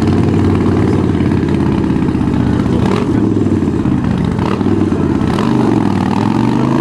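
Harley-Davidson Sportster's V-twin engine running at low revs as the motorcycle is ridden slowly through tight turns. The revs rise a little near the end.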